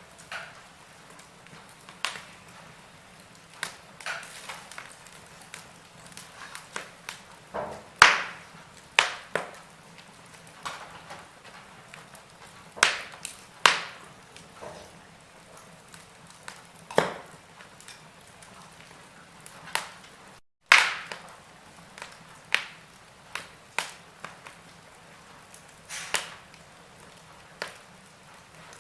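Wood fire burning in a fireplace, crackling with irregular sharp pops and snaps over a soft hiss, some pops much louder than others. The sound drops out for a split second just after the middle.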